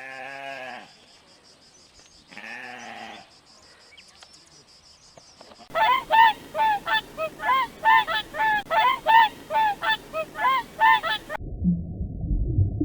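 Geese honking in a rapid run of loud calls, about three a second, after two shorter drawn-out calls. The honking cuts off abruptly into a low rumble near the end.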